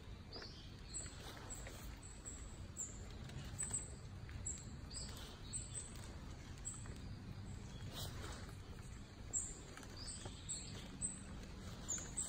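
Small birds chirping, many short high notes repeated throughout over a low steady rumble, with a few soft knocks.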